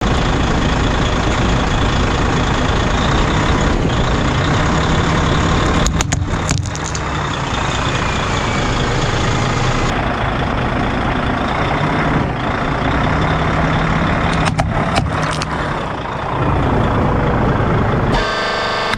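A 7-ton truck's engine running steadily, with short clusters of sharp cracks about six seconds in and again around fifteen seconds, as wooden nesting dolls break under its wheels. Near the end the engine sound cuts abruptly to a different steady hum.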